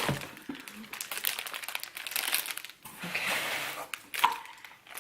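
Packaging crinkling and rustling in fits and starts as a taped-up shipping box is handled, with a sharp tap about four seconds in.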